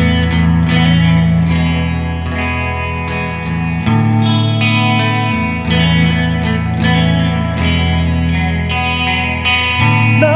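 Instrumental song intro: a guitar through effects picks notes over sustained low bass notes that change every couple of seconds.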